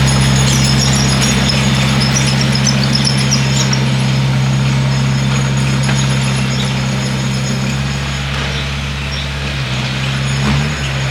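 Bulldozer's diesel engine running steadily under load, with high-pitched squeaking over it for the first few seconds; the engine note dips and shifts briefly near the end.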